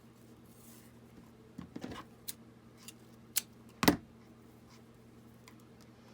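Light clicks and rustles of craft materials being handled while ribbon is tied onto a journal dangle, a handful of short sounds with the sharpest about four seconds in, over a faint steady hum.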